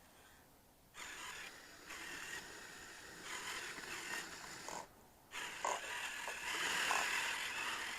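Radio-controlled tracked snow vehicle's electric drive motor and gearing running in spurts, a hissing whine that starts about a second in, cuts out briefly near five seconds, then runs on louder.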